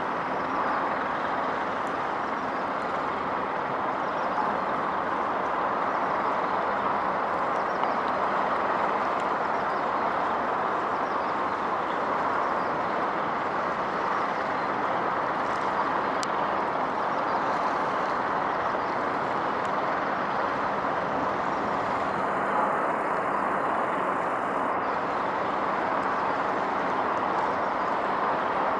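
Steady, even hum of distant road traffic, with no single vehicle standing out.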